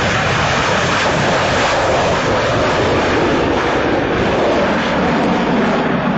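Twin-engined jet fighter flying a display, its engines giving a loud, steady rushing roar.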